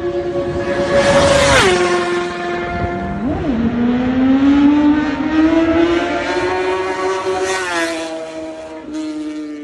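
Superbike engine running at high revs. The pitch drops sharply about one and a half seconds in, blips up and down, climbs slowly for several seconds, then drops again near the end.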